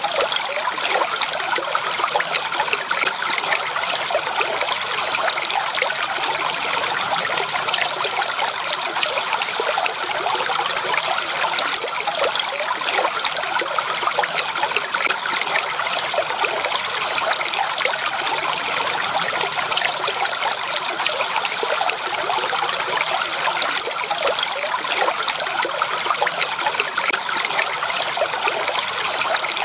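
Stream water flowing and trickling over stones, a steady babble of small splashes.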